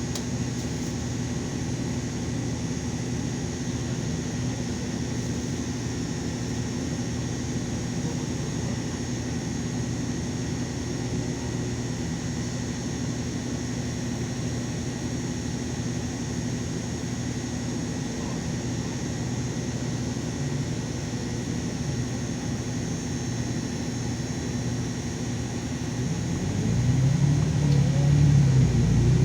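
A LiAZ 5292.22 city bus heard from inside, its engine running with a steady low hum. Near the end the engine works harder and grows clearly louder.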